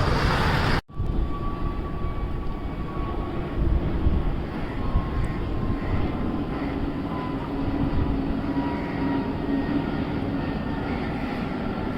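Jet airliner engines running as an aircraft moves near the runway: a steady low rumble with a faint whine that slowly falls in pitch. The sound cuts out briefly about a second in.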